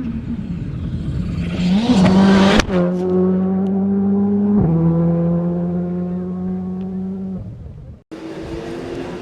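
Racing GT car's engine accelerating hard, the note rising, then two gear changes, the first with a sharp crack about two and a half seconds in and another near the middle; the engine note then holds steady and fades away. A cut near the end brings in another race car's engine.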